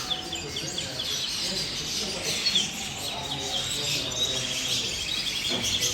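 Many small birds chirping and trilling at once, a dense, continuous chatter, with people talking in the background.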